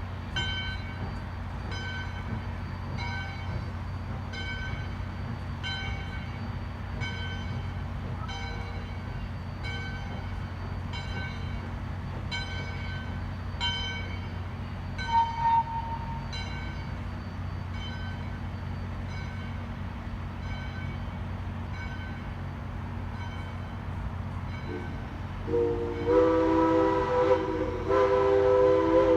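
A locomotive bell ringing steadily about once a second, over a low steady hum. A short whistle toot comes about halfway through, and a loud several-note chime whistle starts sounding near the end.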